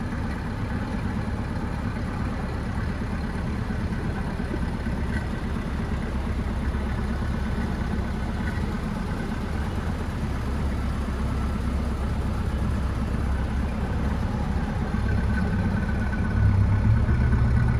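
1964.5 Ford Mustang's 260 cubic-inch V8 idling steadily, a low rumble that grows a little louder near the end.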